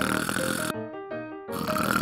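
Cartoon snoring sound effect: two long snores, the second starting about a second and a half in, with a light background tune playing in the gap between them.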